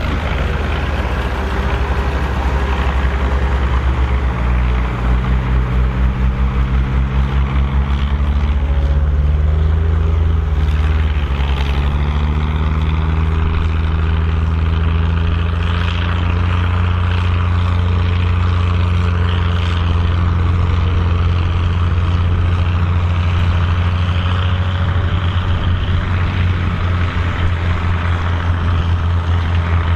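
Massey Ferguson 2680 tractor's diesel engine working under load while pulling a cultivator. Its engine note climbs between about four and ten seconds in, then holds steady.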